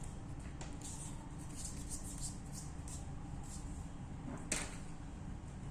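Low steady background rumble with a few faint ticks and one sharper tap about four and a half seconds in.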